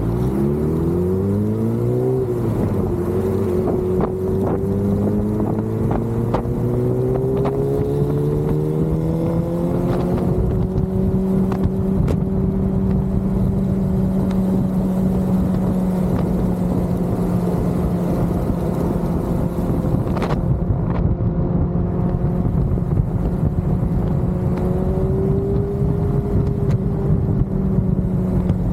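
Motorcycle engine pulling up through the revs over the first ten seconds or so, with a shift about two seconds in, then holding a steady cruising speed on the highway. There are a few brief clicks along the way.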